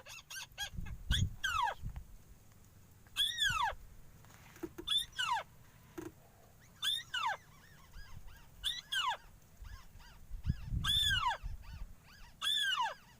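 Repeated short, sharp bird calls, each sliding steeply down in pitch, coming about once a second or in quick pairs. Low dull thumps sound about a second in and again near the end.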